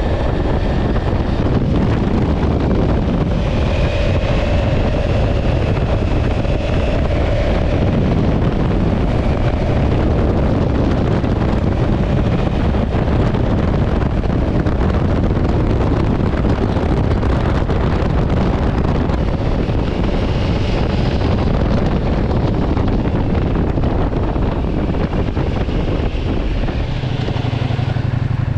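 Heavy wind rush on the microphone from a Ducati Multistrada V4S being ridden at speed, with its V4 engine running underneath. Near the end the wind eases and a steady low engine hum comes forward as the bike slows.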